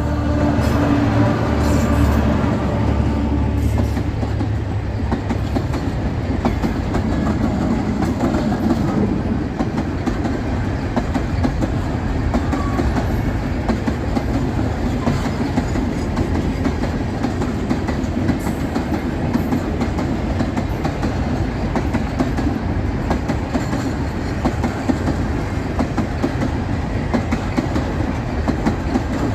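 A train passing close by: a steady rumble of rolling cars with the wheels clacking over rail joints. The low rumble is heaviest in the first few seconds.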